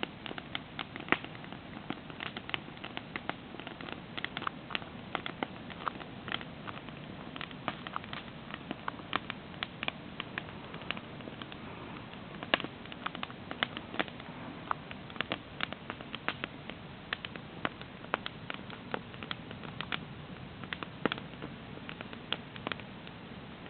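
Wood campfire crackling, with many irregular sharp pops and snaps over a steady low hiss.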